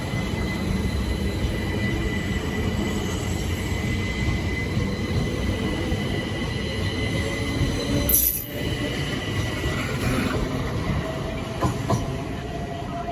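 Southern Class 377 Electrostar electric multiple unit pulling out of the station: a steady rumble with thin, steady high-pitched tones over it, and a fainter whine slowly rising in pitch in the second half. A brief loud burst comes about eight seconds in, and two short knocks near the end.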